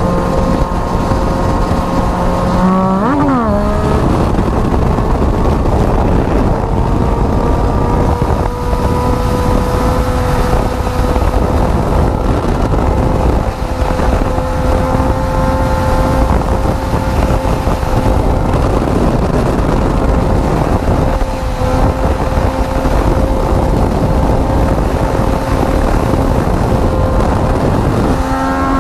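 Yamaha MT-09's three-cylinder engine, revved sharply up and back about three seconds in, then held at steady revs through a wheelie, with a change in pitch near the end. Wind rushes over the microphone.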